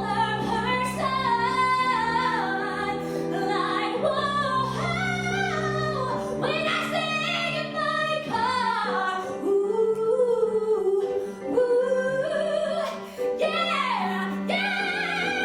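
Woman singing a musical-theatre song, with vocal runs and long held notes, over a steady sustained instrumental accompaniment.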